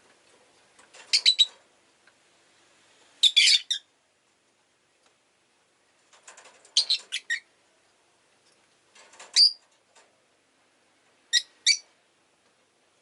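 Rosy-faced lovebird chirping: five short bursts of sharp, high chirps a few seconds apart, each a quick run of a few notes.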